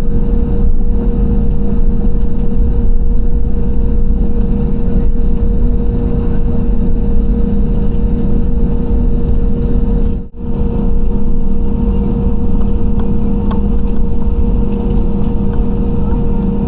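Airliner engine noise heard inside the cabin: a loud, steady rumble with a constant low hum, cutting out for an instant about ten seconds in.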